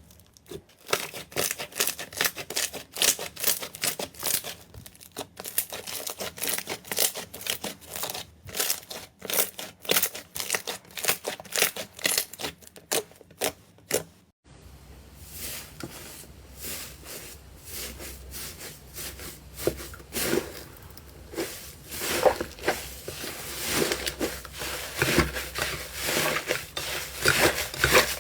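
Slime being squeezed and pressed, a fast run of crisp crackles and pops. About halfway through it changes abruptly to a denser, crunchier crinkling that grows louder near the end.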